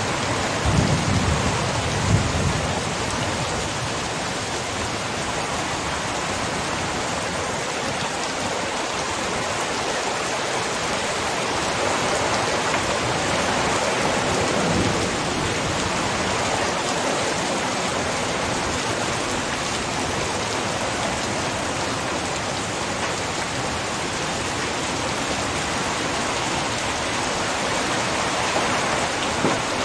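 Heavy rain pouring down steadily, a dense, even hiss of drops. There is a brief low rumble in the first couple of seconds.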